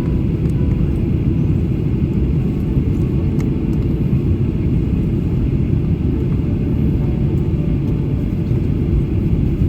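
Steady low rumble inside a Boeing 737-800's cabin as it taxis after landing: engines at idle and the wheels rolling over the taxiway.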